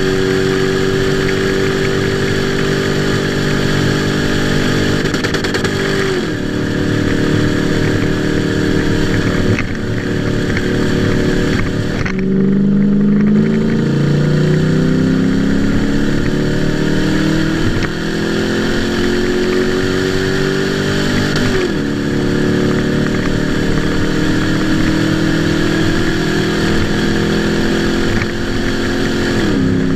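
Toyota Land Cruiser engine revving through an open electronic exhaust cutout, held at high revs and then dropping back sharply, several times over.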